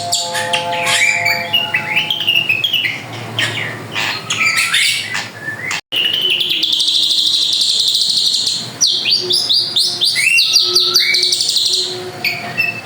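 Drongo singing a loud, varied song of quick whistles and chirps, with a long rapid buzzing trill in the middle; the sound cuts out for an instant about six seconds in.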